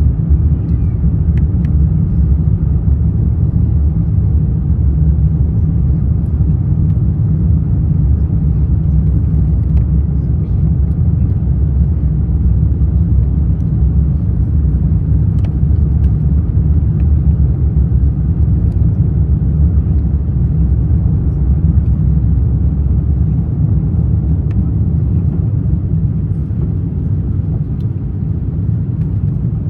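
Steady low rumble of an Airbus A350-900 heard from inside the economy cabin: engine and airflow noise, easing slightly near the end.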